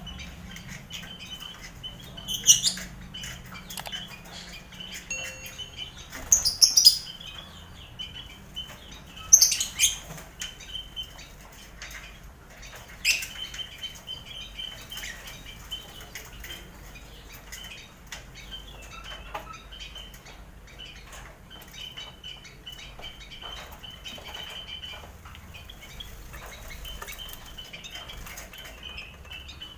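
Busy colony cage of lovebirds, finches and quail: continuous chirping and wing fluttering, broken by four loud, sharp bird calls in the first half.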